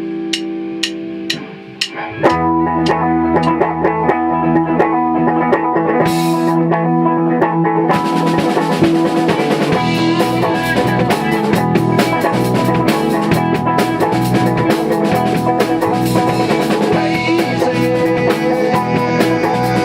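Rock band playing live in rehearsal, with electric guitar and drum kit. It opens with a few sharp ticks over a held guitar chord, the full band comes in about two seconds in, and cymbals join around eight seconds.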